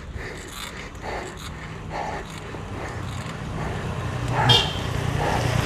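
A motor vehicle's engine drawing closer on the road, a low hum growing steadily louder over the last few seconds, with one short high-pitched call about four and a half seconds in.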